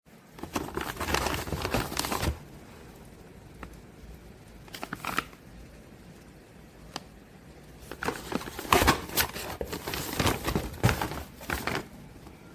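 Crinkling and rustling of handled material in bursts: about two seconds near the start, a short burst around five seconds in, and a longer stretch in the second half.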